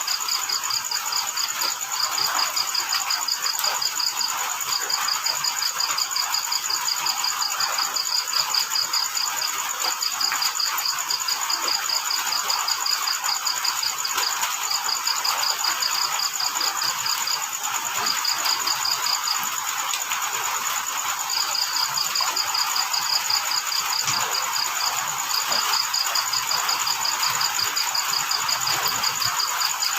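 Crickets chirping: one cricket gives runs of rapid, even pulses a few seconds long, broken by short pauses, over a continuous high trill from another insect. A steady hiss runs underneath.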